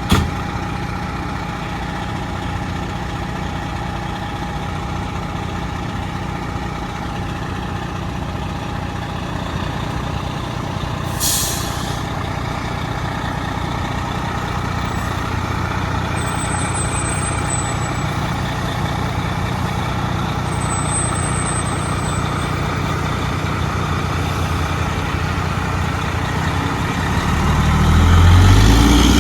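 Fire engine's diesel engine idling steadily, with a short air-brake hiss about eleven seconds in. Near the end the engine picks up and gets louder.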